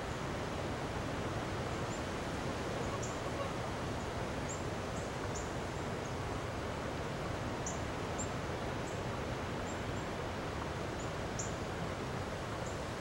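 Steady outdoor hiss with many short, high chirps of small songbirds scattered through it.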